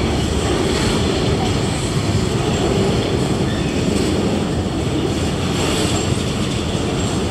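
First Coast Railroad freight train's boxcars rolling across a trestle bridge: a steady, loud rumble of the wheels on the rails.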